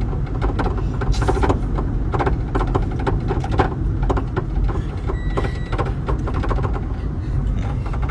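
Steady low rumble of a car heard from inside the cabin, with indistinct voices over it and a short electronic beep about five seconds in.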